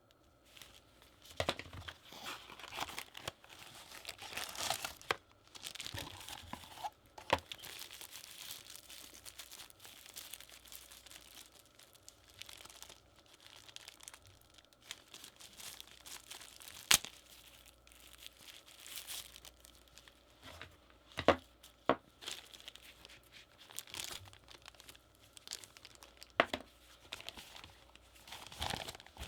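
Packaging being unpacked by hand: plastic and paper crinkling and tearing, with scattered sharp clicks and taps.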